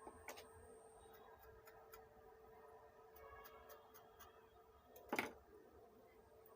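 Near silence with a faint steady hum, scattered small clicks and taps, and one louder knock about five seconds in.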